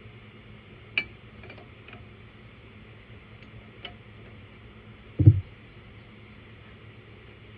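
Wrenches clinking lightly against the control-cable nuts and fittings a few times, then one dull thump, the loudest sound, a little past the middle.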